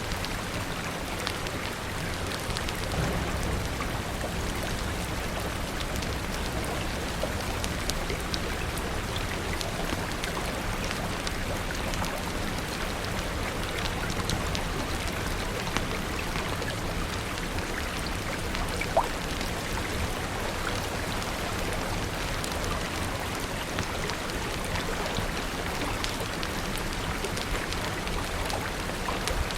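Steady rain falling, with scattered small crackles and pops from a wood fire and one sharper pop about two-thirds of the way through.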